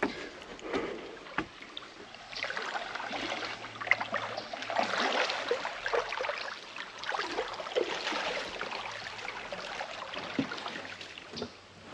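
Water splashing and sloshing around a kayak being handled in shallow water at the landing, with small knocks against the hull.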